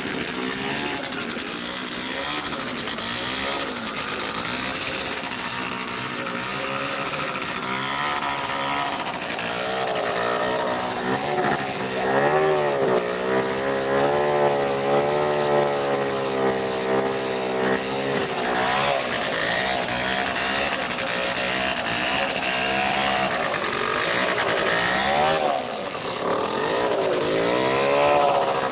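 Two-stroke motorcycle engine running and revving, its pitch swinging up and down again and again, loudest in the middle and near the end, with a brief drop just before the end.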